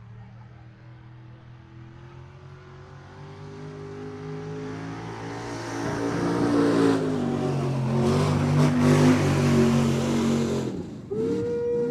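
Mud bog truck's engine running at full throttle, growing steadily louder to a peak about two-thirds of the way through, then dropping away suddenly near the end.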